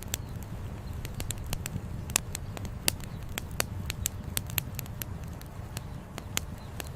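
Wood fire crackling, with irregular sharp pops of burning firewood, several louder than the rest, over a steady low rumble.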